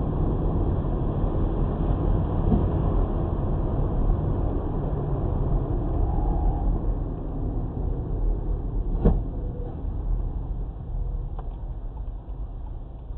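Steady rumble of a moving car's engine and road noise, with one sharp knock about nine seconds in.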